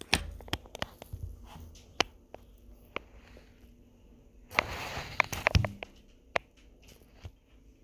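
Scattered light clicks and knocks with a short rustle about five seconds in: handling noise.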